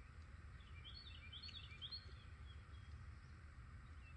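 Faint outdoor background in which a small bird sings a quick run of short chirps between about one and two seconds in, over a steady low rumble.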